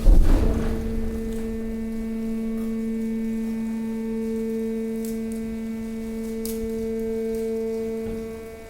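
Hydraulic waste compactor running, its pump giving a steady pitched hum while the press works on mixed waste. A heavy low thump comes right at the start, and a couple of faint sharp cracks come later.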